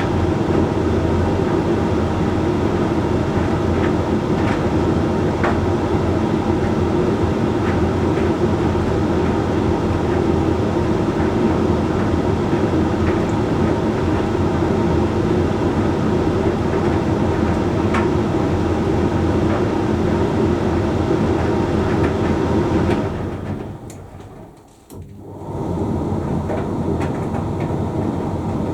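Hoover Link X Care condenser tumble dryer running with laundry tumbling in the drum: a steady motor-and-fan hum with occasional light taps. Near the end it falls almost silent for about two seconds, then starts running again.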